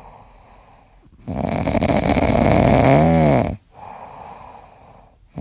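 A pet snoring loudly in slow, rasping breaths. One long snore falls in the middle, with a wavering tone near its end, and the next begins at the very end.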